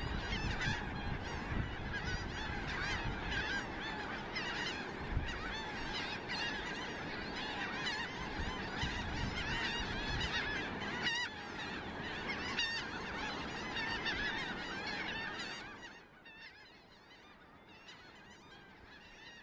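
A large flock of seagulls calling together, with many overlapping squawks and wind buffeting the microphone. The calling fades to a faint level about three-quarters of the way through.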